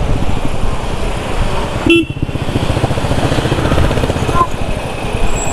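Royal Enfield Bullet 350's single-cylinder engine running steadily under way in traffic, with a short vehicle-horn toot about two seconds in.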